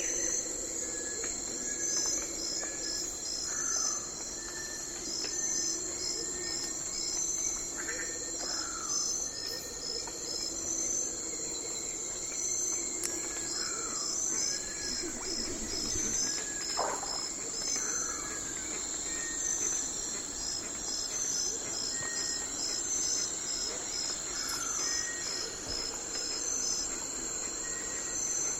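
Night forest ambience: a steady high insect drone with crickets chirping in even trains of pulses, and short calls that drop in pitch, scattered through it.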